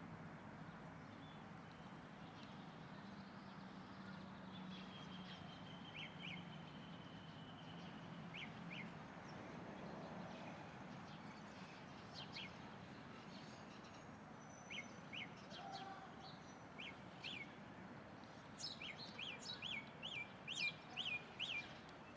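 Wild birds calling faintly over steady background noise: scattered short, sharp chirps, a thin whistle held for a few seconds about five seconds in, and a quick run of about eight chirps near the end.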